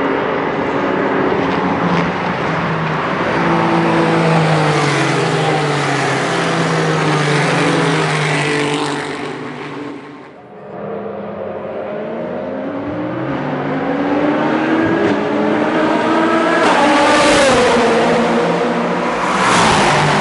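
Racing car engines at speed on a circuit, their pitch rising and falling. The sound drops away suddenly about ten seconds in, then another race car comes up and passes close near the end.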